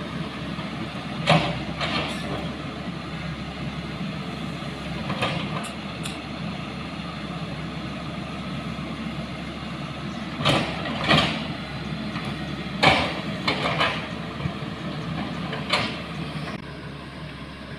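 A motor vehicle running steadily, with short sharp rattles and knocks every few seconds. It becomes quieter near the end.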